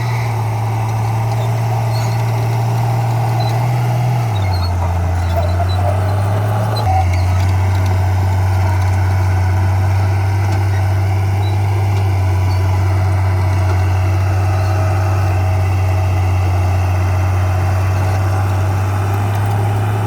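Heavy diesel earthmoving machinery running: a bulldozer or dump truck engine with a steady deep drone. Its note drops about four seconds in and rises again, a little louder, about three seconds later.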